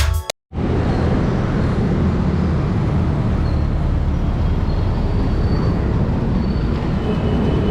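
Steady rush of wind over the microphone of a camera riding on a moving bicycle, with road traffic beneath it.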